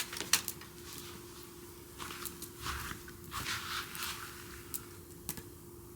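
Wood campfire crackling, with a few sharp pops near the start and near the end and short hissing spells in between.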